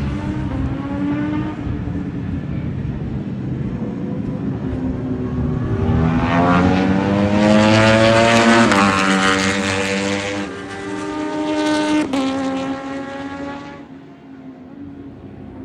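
Ducati Panigale V4 S motorcycle's V4 engine running, then accelerating hard about six seconds in with a rising pitch that drops suddenly, revs briefly again later, and fades out near the end.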